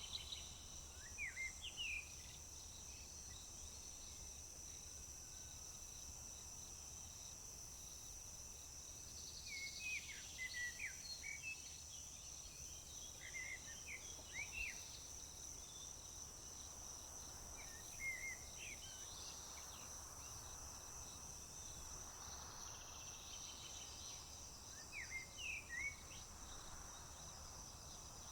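Crickets and other insects droning steadily at a high pitch, while a songbird sings five or so short phrases of quick sweeping notes, spaced a few seconds apart.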